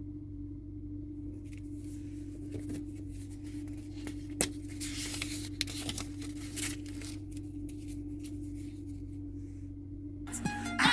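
Rustling and scraping handling noises with a few sharp clicks, over a steady low hum. A pitched, musical sound starts just before the end.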